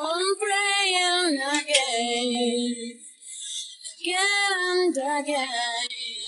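A high voice, female or child, singing slow held notes in two phrases, with a short pause between them about three seconds in.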